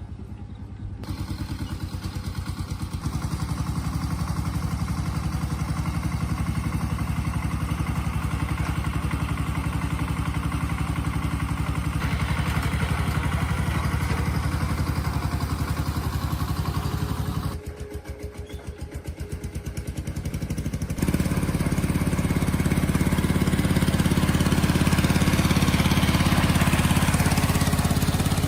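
Tractor engine running with a steady, even firing beat. The sound jumps louder about a second in, drops away for a few seconds past the middle, then returns louder near the end.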